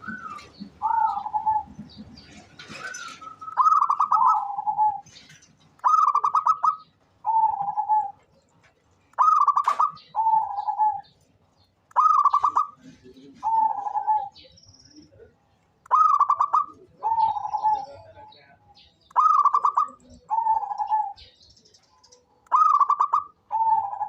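Zebra dove (local perkutut) singing: a repeated coo phrase of a rolling higher note dropping to a lower, longer note, about every three seconds, seven times.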